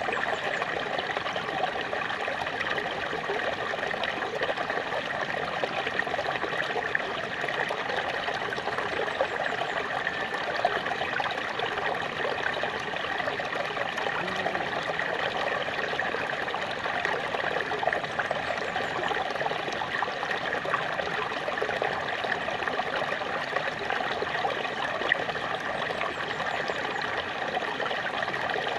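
Small waterfall splashing and trickling steadily, an even rush of falling water.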